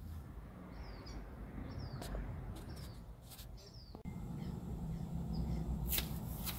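Small birds chirping outdoors, short repeated calls about once a second, over a steady low background rumble with a few sharp clicks. The background gets louder abruptly about four seconds in.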